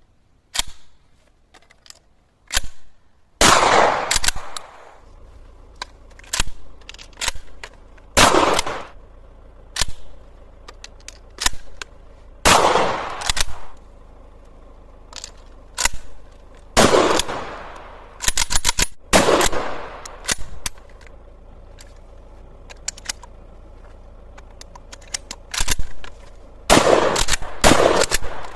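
Derya Arms CRX 400 firing: loud shots in quick strings and pairs, each with a short echoing tail, separated by pauses of a few seconds. Lighter clicks between the strings.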